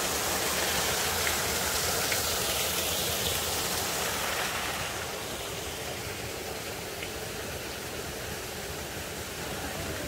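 Mountain stream running over rocks: a steady rush of water, a little louder for the first five seconds.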